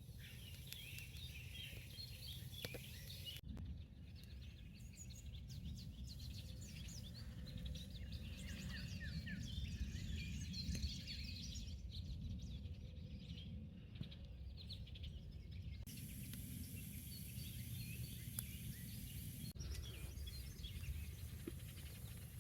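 Small birds chirping and calling, many short overlapping chirps, over a steady low background rumble, with a few abrupt cuts.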